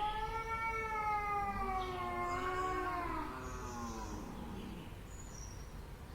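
A cat's long drawn-out yowl: one call of about four seconds that rises at the start, then slowly sinks in pitch and fades.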